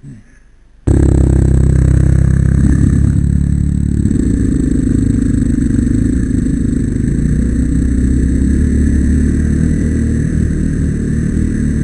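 Dirt-bike engine running steadily close to the microphone. It comes in suddenly and loud about a second in.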